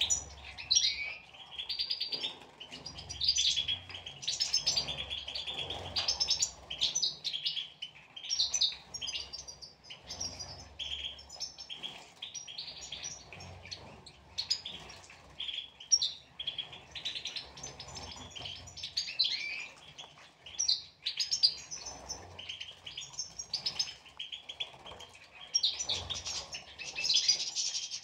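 European goldfinches chirping and twittering without pause, with intermittent low rustling beneath the calls.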